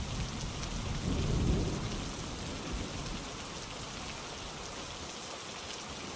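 Steady rainfall with a low rumble of thunder over the first couple of seconds that then fades away.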